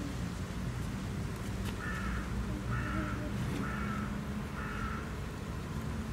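A bird calling four times in an even series, about one harsh call a second, over steady low background noise.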